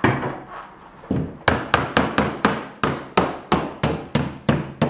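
Hammer blows on plywood: one strike at the start, then from about a second in a steady run of about three strikes a second, each with a short ring.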